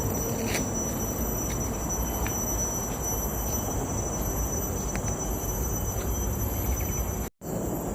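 Forest insects keep up a steady high-pitched drone over a low rumble, with light footsteps about once a second. The sound cuts out for an instant near the end.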